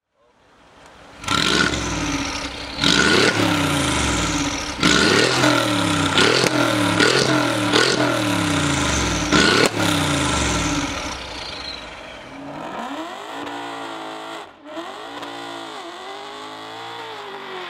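Brabus-tuned Mercedes-AMG G63 twin-turbo V8 revved repeatedly through its side-exit exhausts, each blip rising and falling in pitch, with a few sharp cracks at the loudest peaks. After about twelve seconds a quieter sound with a wavering pitch takes over.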